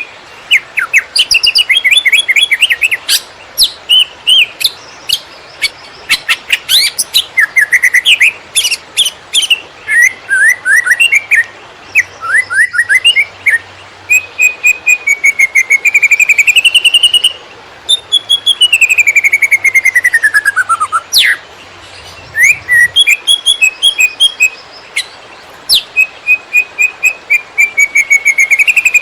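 Cucak ijo (green leafbird) singing nonstop in the fast 'konslet' style: a dense run of quick chirps, trills and whistled slurs. A little past the middle comes one long falling whistle.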